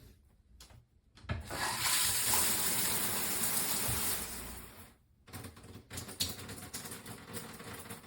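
Water spraying hard from a shower head, starting about a second in and dying away after about three seconds, followed by scattered small clicks and knocks.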